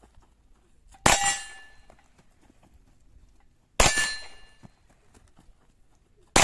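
Two single shots from an Umarex Hammerli TAC R1 .22 LR carbine, about a second in and near four seconds, with a third right at the end. Each sharp crack carries a short metallic ring as it dies away.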